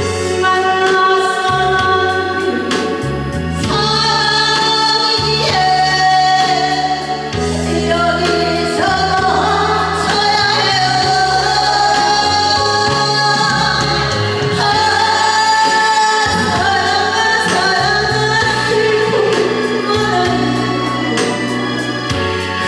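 A singer sustaining long, wavering notes in a Korean ballad, over a backing track with a steady bass line.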